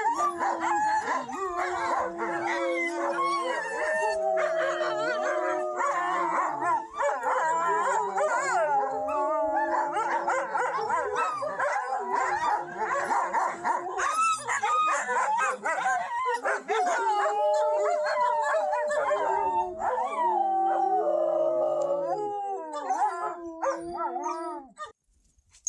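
A pack of wolfdogs howling in chorus: many voices overlap in long held and gliding notes, mixed with yips and higher yelping. The chorus cuts off abruptly near the end.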